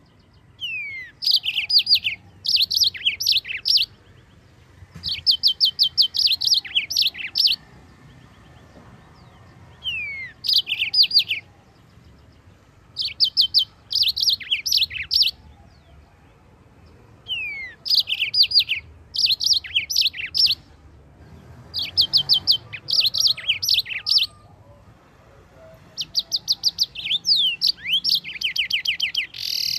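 Yellow-fronted canary (mozambik) singing: about eight phrases of fast, high chirps, many opening with a falling note, separated by short pauses.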